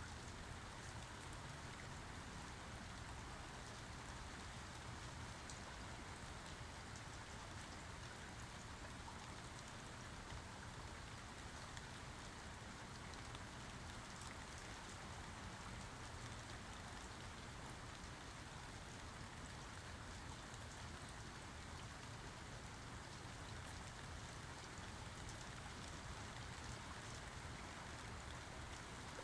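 Steady rainfall, drops pattering on a surface with a fine crackle of individual drops, no thunder.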